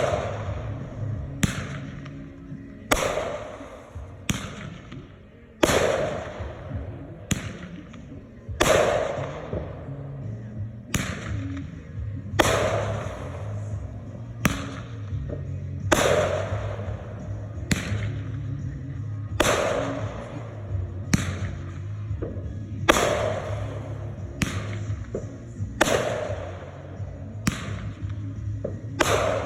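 Consumer firework mortar shells going off one after another, a sharp report about every second or so, each followed by a fading crackle and rumble, over background music.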